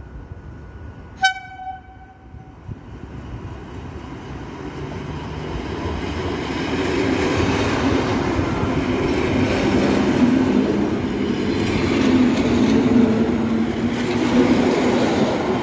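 Electric multiple unit sounds a brief horn toot about a second in, likely the warning signal for the platform. It then approaches and passes close by, its rumble and wheel noise building to a loud pass-by with a steady humming.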